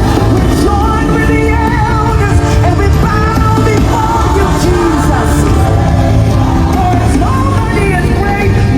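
Worship music at a revival meeting: voices singing a wavering melody over a loud, steady band with heavy bass.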